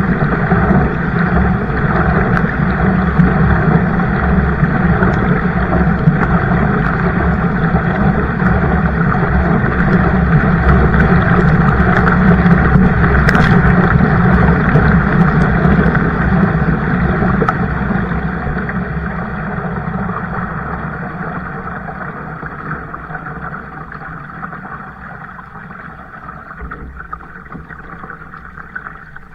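Loud, steady rushing noise of a boat moving on the water, which fades away gradually over the last ten seconds or so.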